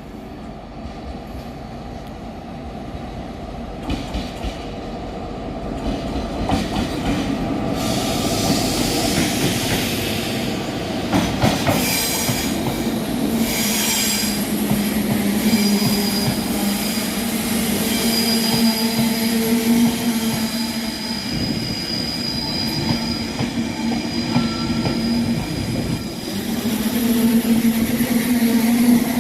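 De Dietrich Enterprise train hauled by a Class 201 diesel locomotive pulling into the platform: its rumble grows louder over the first several seconds, then wheels squeal steadily alongside the locomotive's engine hum through the second half.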